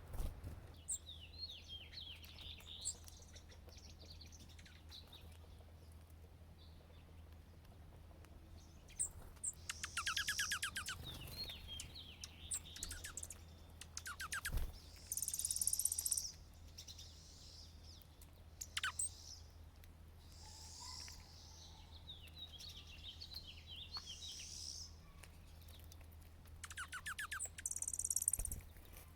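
Small songbirds calling: scattered high chirps and several rapid trills and buzzy phrases, over a steady low hum. A single sharp knock comes about halfway through.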